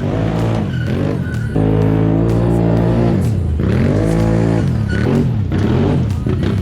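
A vehicle engine revving up and down several times, its pitch rising and falling, with steady stretches between.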